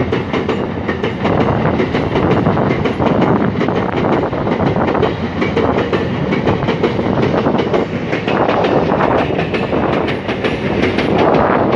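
MRS freight train wagons rolling past close by, their wheels clattering over the rail joints in a steady, rapid run of clicks.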